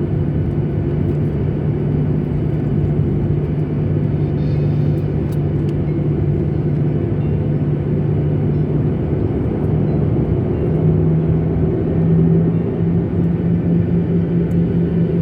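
Airliner cabin noise from jet engines: a steady rumble with a low hum that steps up slightly in pitch about ten seconds in.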